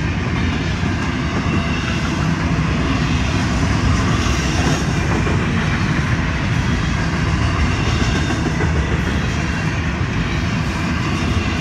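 Double-stack intermodal container well cars of a Florida East Coast Railway freight train rolling past: the steady, loud noise of steel wheels running on the rails, with no break.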